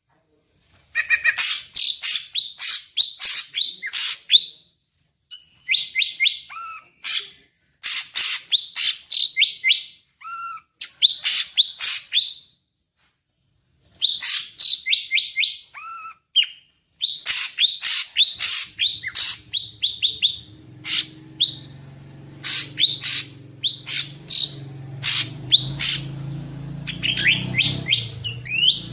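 Cucak ijo (green leafbird) singing in fast, varied phrases of high chirps and trills with brief pauses between them. A low steady hum sits underneath from about two-thirds of the way through.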